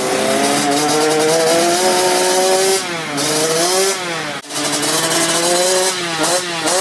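Motocross bike engine revving: held at a steady high pitch for a few seconds, then blipped down and up several times, with a brief sharp drop about halfway through.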